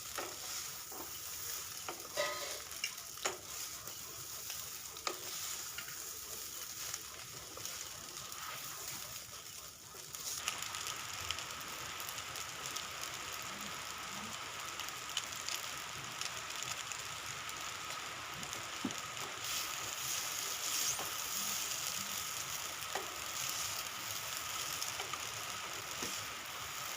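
Pasta with potato and soybean chunks sizzling in a pan over medium flame while being stirred, the spatula scraping and tapping against the pan. The sizzle turns a little louder and brighter about ten seconds in.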